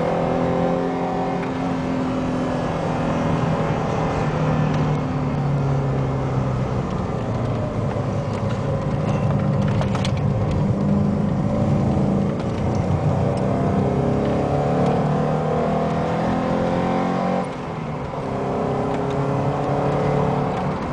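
Alfa Romeo 33 1.7 16v's flat-four engine heard from inside the car, accelerating through the gears: the engine note rises and drops back at each upshift. The level dips briefly near the end as the driver lifts off.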